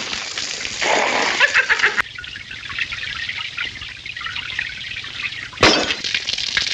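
Water splashing and hissing from leaking pipes, with a sharp click about two seconds in and a louder sudden knock near the end.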